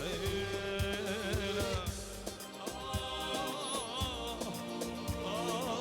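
Live Middle Eastern party band playing an instrumental passage: a wavering, ornamented melody line over a steady drum beat.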